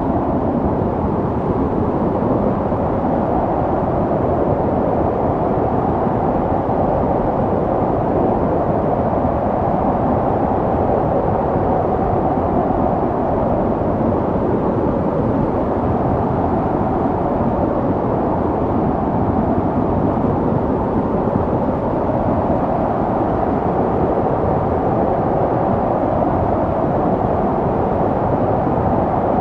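Snowstorm wind blowing steadily, a deep, even rushing with no gusts, breaks or separate sounds.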